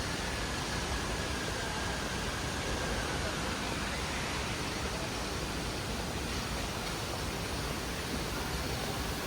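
Steady rushing cabin noise inside an Airbus A320 airliner, with faint thin tones drifting above it.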